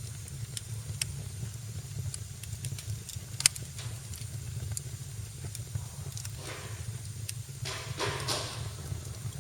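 Fireplace fire crackling with scattered small pops and one sharp, loud pop about three and a half seconds in, over a steady low rumble. Near the end come two brief hissing rushes.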